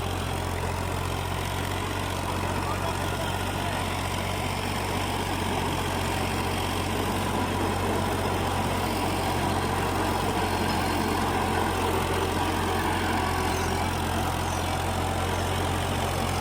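Fiat 480 tractor's diesel engine running steadily, driving a rotavator through grass and soil. A constant low drone with a chopping churn over it, with no change in pace.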